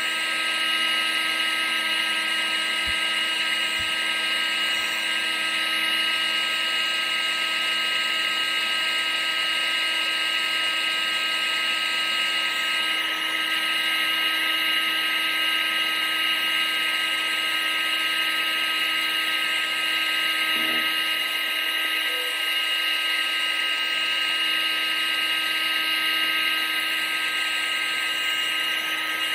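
Vacuum cleaner running steadily: an even, high-pitched motor whine over a rush of air.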